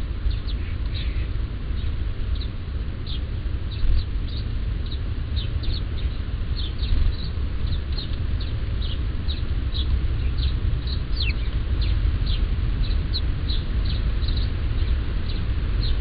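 Small birds chirping: many short, high calls, about two a second, over a steady low rumble.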